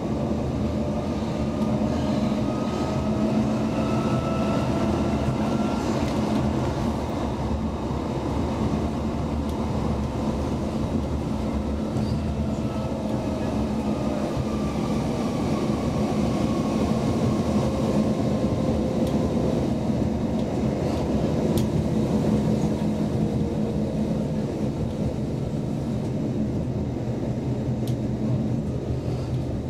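Inside a Roslagsbanan X10p electric train running at speed: a steady rumble of the wheels on the rails, with a whine that rises in pitch over the first few seconds, holds, then falls slowly through the second half. A few faint clicks.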